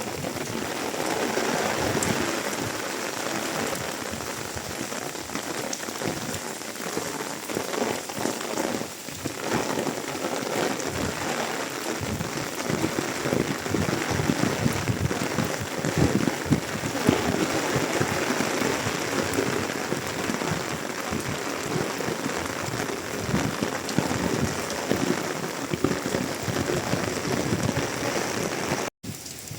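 Steady rain falling, a dense patter of drops hitting surfaces, cutting out for an instant near the end.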